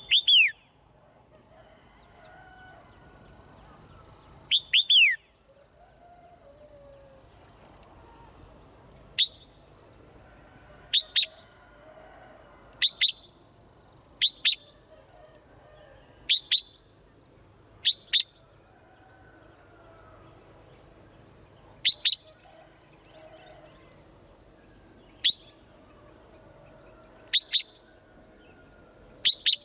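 A swallow calling: short, sharp chirps that drop quickly in pitch, mostly in quick pairs, repeated every two seconds or so.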